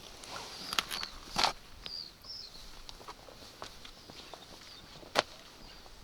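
Irregular footsteps and scuffs with sharp knocks, the loudest about one and a half seconds and five seconds in, and two short high bird chirps about two seconds in.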